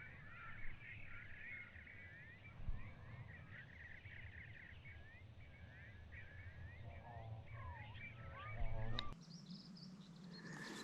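Faint birdsong: many small birds twittering in a quick run of short chirps, with a few lower calls near the end, over a low steady rumble of wind. It all stops abruptly about nine seconds in.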